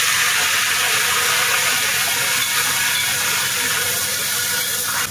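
Shredded red cabbage sizzling steadily in a hot wok as it is stir-fried over a gas flame.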